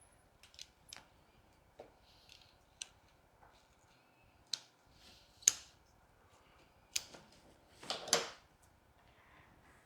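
Florist working trachelium stems into an arrangement: scattered sharp snips and clicks of cutting and handling the stems, the loudest about five and a half seconds in, and a brief rustle of stems and foliage about eight seconds in.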